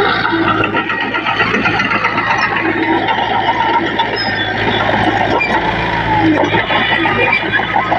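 Diesel engine of heavy earthmoving machinery running steadily under load, with continuous metallic clatter and rattling.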